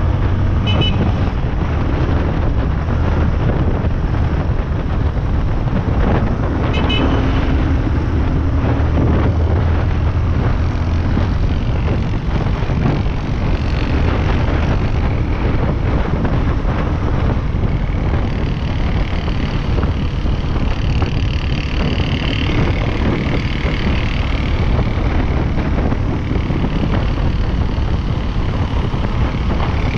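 A Yamaha Lander 250's single-cylinder engine running steadily as the motorcycle rides through city traffic, with wind buffeting the microphone.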